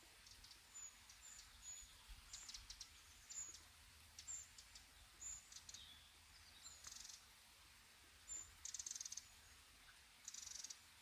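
Faint forest ambience with small songbirds calling: short, very high chirps every half second to a second, and two short rattling trills in the second half.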